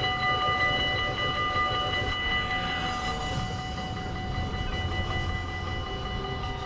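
A train passing through a Dutch level crossing with a low, steady rumble, while the crossing's warning bells ring on continuously.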